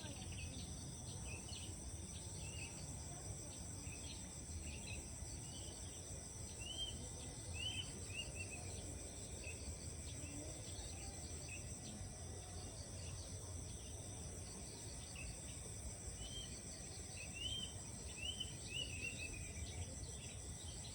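A steady, high-pitched chorus of insects in a rice field, with birds giving short chirps now and then, most clearly in two clusters about a third of the way in and near the end.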